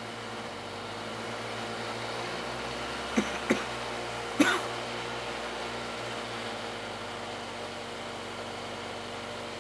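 Mercedes M274 turbocharged four-cylinder engine running steadily on a dynamometer at about 1800 rpm on light throttle, with the boost flap closed so the turbocharger is out of play. About three seconds in, three short sharp noises cut through the hum: two close together, then a louder one a second later.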